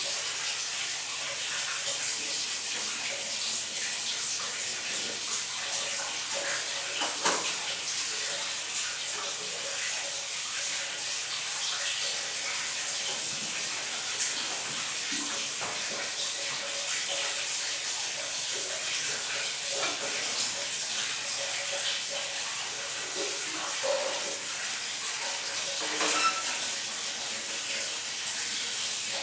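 Water running steadily from a bathroom tap, an even hiss, with a few short knocks, the loudest about seven seconds in and near the end.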